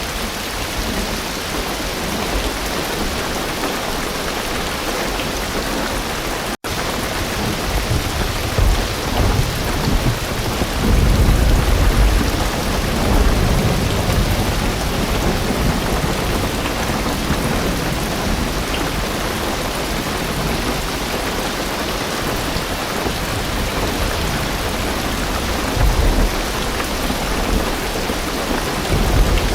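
Heavy rain drumming steadily on a car roof, with deep rolling thunder rumbling from about 8 to 14 seconds in and again briefly near the end. The sound drops out for a split second about six and a half seconds in.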